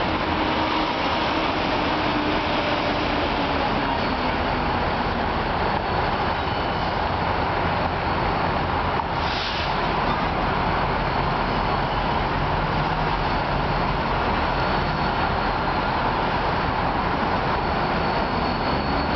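Diesel locomotives of a maintenance-of-way train moving slowly through a rail yard: a steady rumble with rail noise, and a brief hiss about nine seconds in.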